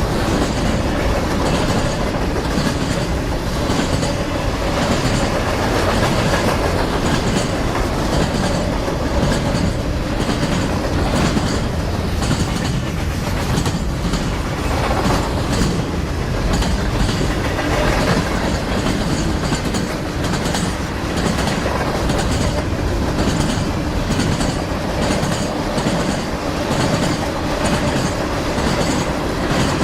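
A train rolling past at steady speed, its wheels clicking rhythmically over the rail joints.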